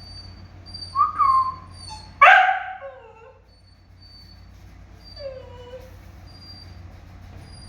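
Pet parrot calling: two short calls about a second in, the loudest call, falling in pitch, a little after two seconds, and a lower falling call a little after five seconds.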